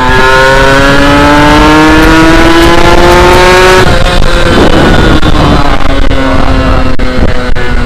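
Kawasaki Ninja 150 SS two-stroke single-cylinder engine under hard acceleration, revs climbing steadily for about four seconds, then falling sharply and running on lower. Its note is a little rough and dry from the non-original exhaust, and wind noise on the microphone runs underneath.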